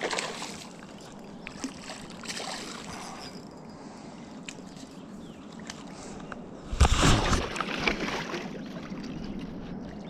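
River water sloshing and lapping along the bank, with a few small clicks and one short, loud burst of noise about seven seconds in.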